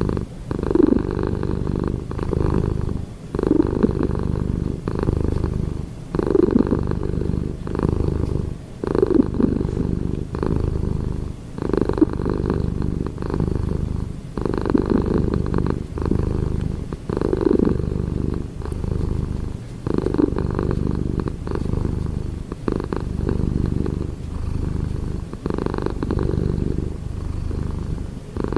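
Domestic cat purring loudly and continuously, the purr swelling and easing in a regular cycle of about one breath every two and three-quarter seconds.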